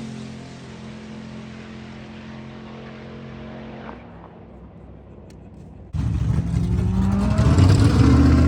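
Car engine running at a steady, moderate level and fading, then, after an abrupt change about six seconds in, a loud engine accelerating hard with rising pitch as a car launches down the drag strip.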